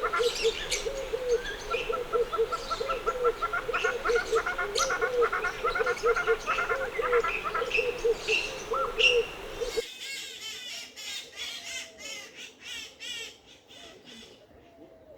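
Several aviary birds calling together. For the first ten seconds or so one bird gives a long, quick series of low repeated notes among scattered higher chirps. Then the sound changes abruptly to dense high-pitched chirping that fades away.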